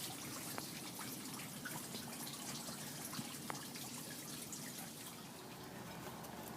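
Faint steady trickle of running water with a few small drips.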